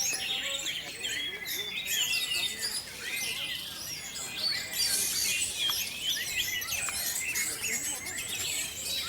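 Many caged orange-headed thrushes singing and chirping at once, a dense, unbroken chorus of overlapping quick whistles and trills.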